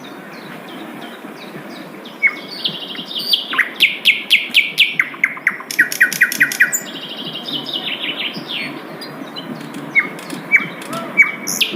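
A sikatan londo flycatcher singing: soft repeated chirps, then from about two seconds in a loud, fast song of trills and quick falling notes, about four or five a second, easing after the middle and ending with a few sharp high notes.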